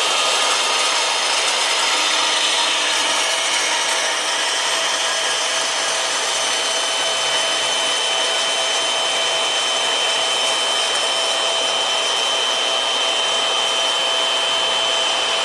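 A power tool running steadily and cutting metal smoothly, a steady high whine over a hissing rush.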